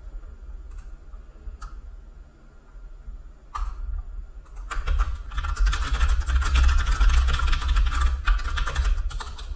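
Computer keyboard: a few single key clicks, then fast continuous typing from about four and a half seconds in until shortly before the end.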